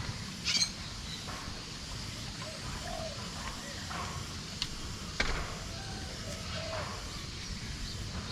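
Scattered short bird chirps and calls, with a few sharp clicks and a steady low rumble underneath.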